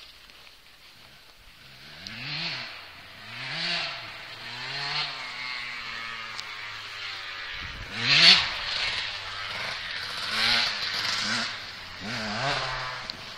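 KTM 125 SX dirt bike's single-cylinder two-stroke engine revving up and down over and over as it is ridden, the pitch climbing and dropping with each burst of throttle. Quieter for the first two seconds, loudest about eight seconds in.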